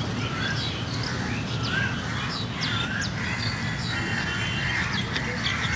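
Many birds chirping and calling in quick, overlapping short notes, over a steady low background rumble.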